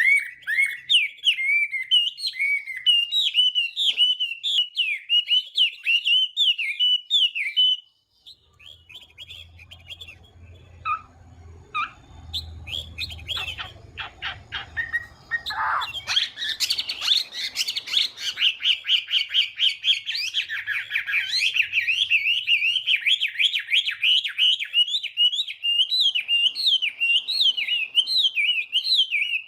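Chinese hwamei (hoạ mi) singing a fast, varied song of whistled phrases. The song breaks off about eight seconds in, leaving only scattered faint notes for several seconds. It then resumes as a dense, unbroken run of rapid notes.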